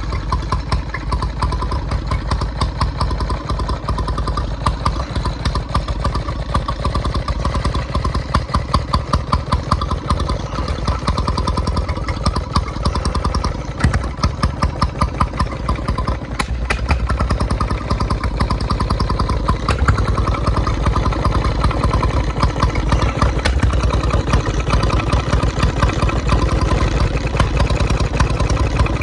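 1924 Petter M 1½ HP single-cylinder oil engine running steadily, each firing stroke coming as an even, rapid chuffing beat.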